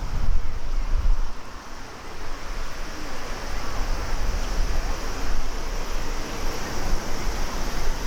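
Jet engine noise from a Boeing 737-800's CFM56 turbofans, a steady hiss, with wind buffeting the microphone in low gusts.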